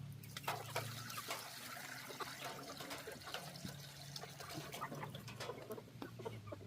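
Water pouring in a thin trickle from a jug into a chicken's water bowl, the jug running low.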